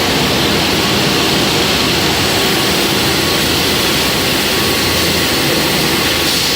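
Metal polishing machine running steadily on 15 mm stainless steel: a loud, even grinding hiss with a faint steady hum underneath.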